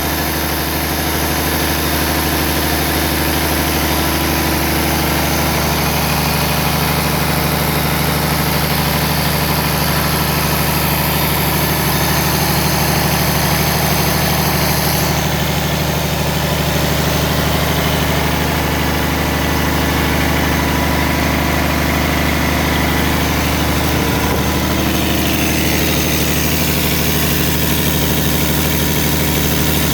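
Scania D9 diesel engine idling steadily on a test run.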